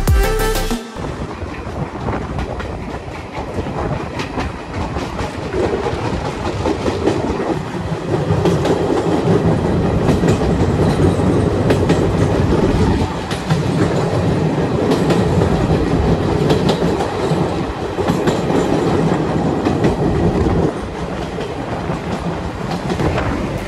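Chennai Mail express train running at speed, heard from an open coach door: a steady rushing rumble with the clickety-clack of wheels over rail joints as it crosses a river bridge. It grows louder about eight seconds in and eases a little near the end.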